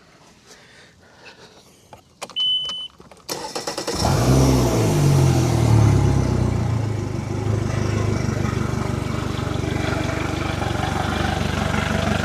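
A short high beep, then the starter cranks the 2014 Mercury 115 EFI four-stroke outboard for under a second. It catches about four seconds in, flares up briefly, and settles into a steady idle while it is still cold.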